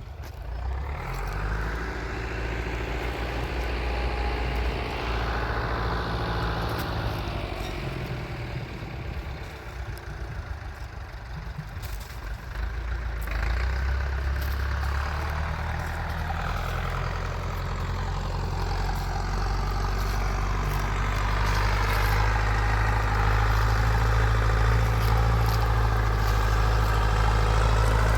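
Tractor engine running steadily, growing louder about halfway through and again toward the end.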